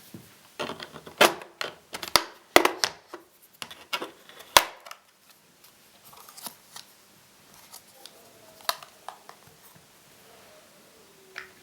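Sharp plastic clicks and taps of a laptop's underside being worked on by hand while its RAM is taken out, loudest and densest in the first half. Fewer, lighter clicks and a faint short squeak follow.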